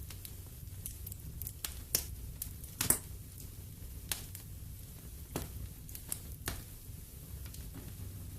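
Wood fire in a fireplace crackling, with irregular sharp pops over a low steady rumble of the flames; the loudest pops come about two and three seconds in.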